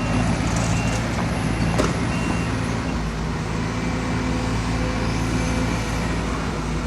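Heavy diesel engine of the construction machinery running steadily under load. A few short high beeps sound over it, and there is one sharp knock about two seconds in.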